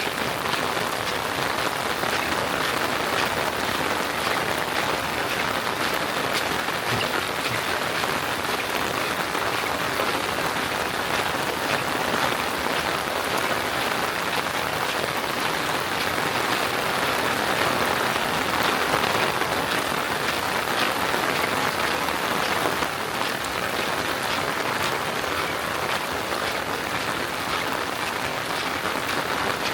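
Steady rain falling, a dense, even patter of many small drops hitting a surface.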